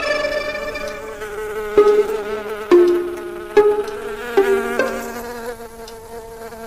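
Cartoon insect buzzing: a series of short buzzes, about one a second, each starting sharply and wavering in pitch as it dies away, while string music fades out at the start.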